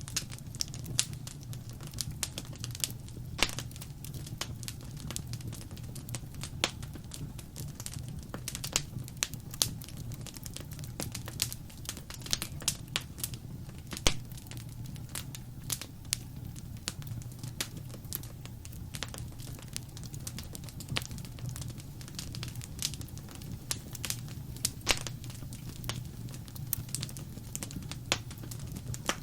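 Wood fire in a fireplace crackling and popping: irregular sharp snaps over a steady low rumble of the burning, with one louder pop about fourteen seconds in.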